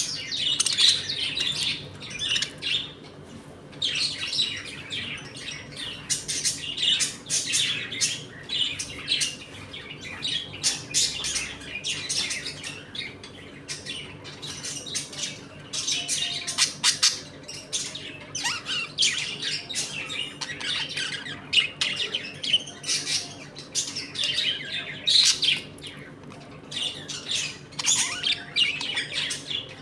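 A colony of pet budgerigars chirping and chattering without pause, many short high calls overlapping, growing louder in flurries every few seconds.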